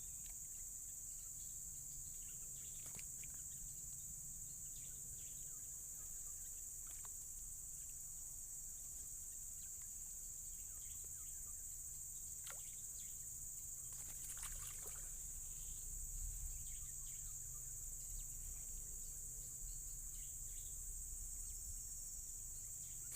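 A steady, high-pitched drone of insects from the swamp vegetation, unbroken throughout, with a few faint ticks and small handling sounds.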